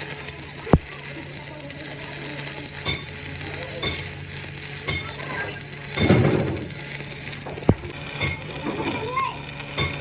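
Steady crackling sizzle of electric arc welding over a low hum. Two sharp knocks come about a second in and near eight seconds, with a louder clattering burst about six seconds in.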